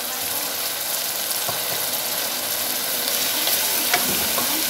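Diced tomatoes sizzling steadily in hot oil in a metal pot, with a wooden spatula stirring and lightly knocking the pot a couple of times.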